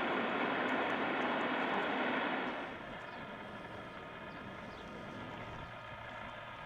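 Freight train rolling past: a steady rush of steel wheels on rail. About two and a half seconds in the noise drops and turns fainter, leaving several steady high ringing tones.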